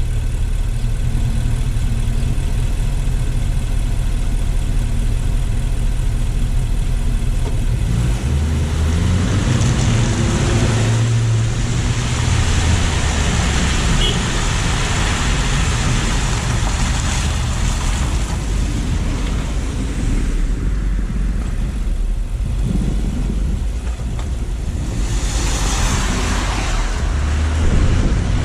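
Car engine idling with a steady low hum, then pulling away about eight seconds in. Rushing tyre and road noise swells and fades several times as the car drives on.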